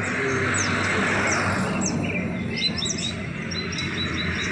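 Many caged songbirds chirping and twittering at once over a steady background noise. In the last second or so one bird repeats a short high note about four or five times a second.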